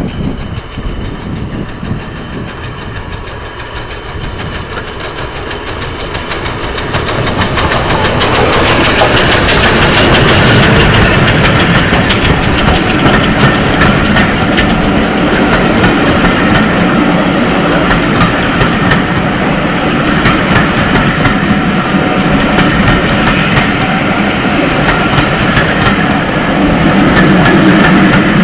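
A steam-hauled train approaching, growing steadily louder over the first eight seconds, then passing close by loudly with a rapid clatter of wheels on the rails.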